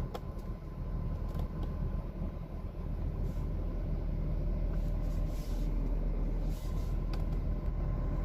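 Ford F550's 6.7-litre diesel V8 idling steadily, heard from inside the cab as a low hum, with a few faint clicks.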